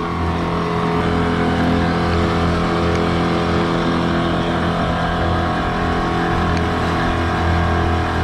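9.9 hp Mercury kicker outboard running steadily at full throttle with an even, unchanging pitch, pushing a heavily loaded boat of about 5,000 pounds against the current.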